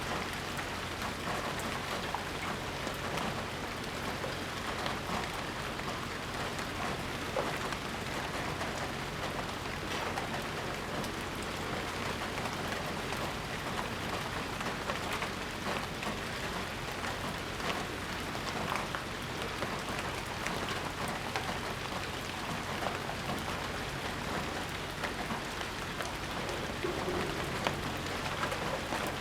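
Steady rain falling on surfaces, an even hiss sprinkled with the light taps of individual drops, with a low steady hum beneath it.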